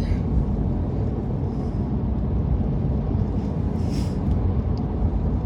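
Steady low rumble of a vehicle on the move: engine and road noise at an even level.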